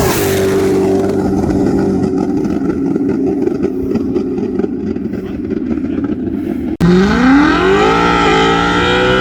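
Car engine running hard at steady revs, then, after a brief dropout, accelerating with a steadily rising pitch that levels off high.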